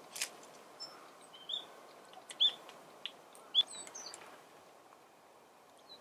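Small birds giving short, high chirping calls, several in the first four seconds, then only faint background.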